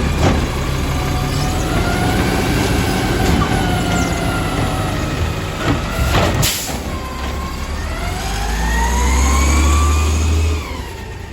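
Garbage truck engine running hard, with whining tones that rise and fall in pitch as the hydraulics work, and a sharp knock at the start and another about six and a half seconds in. The engine drone swells to its loudest near the end, then drops off suddenly.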